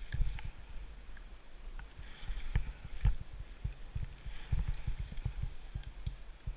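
Skis sliding through deep powder snow, a soft hiss, over irregular low thumps and rumble of wind and handling on the camera's microphone.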